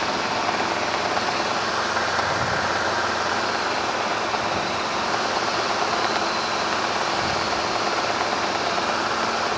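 Robinson R22 helicopter in flight, heard from the cabin: a steady drone of engine and rotor with an even hiss over it, unchanging throughout.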